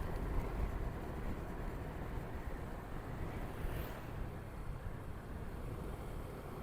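Motorcycle riding along steadily: engine and road noise, with wind on the action camera's microphone.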